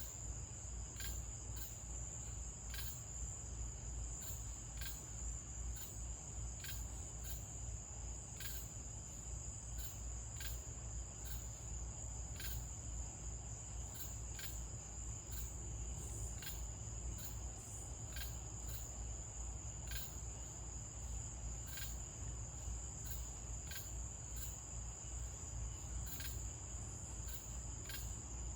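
Crickets at night: a steady high-pitched trill with short chirps repeating over it about once or twice a second, over a faint low rumble.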